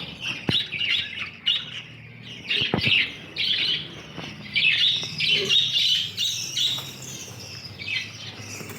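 A flock of budgerigars chirping and chattering, many short calls overlapping without pause, with a few sharp knocks.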